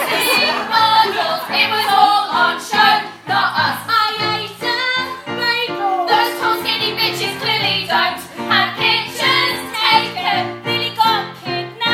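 Female voices singing a musical-theatre song over an instrumental backing track.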